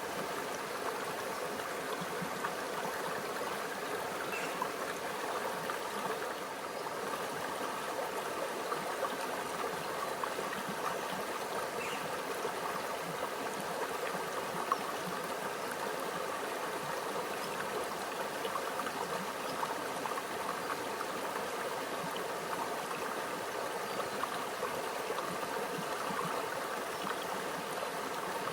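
Small stream flowing and trickling over rocks: a steady babble of water with fine gurgles and splashes throughout.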